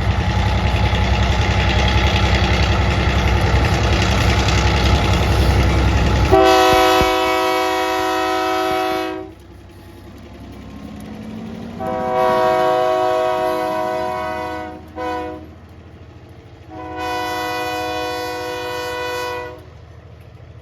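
EMD MP15AC diesel switcher locomotive running close by for about six seconds. Its multi-note air horn then sounds the grade-crossing signal: two long blasts, a short one, and a final long blast.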